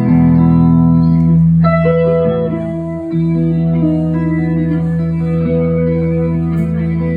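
Electric guitar played through an amplifier with effects, holding sustained ringing chords over a steady low note. The chord changes about a second and a half in and again about three seconds in.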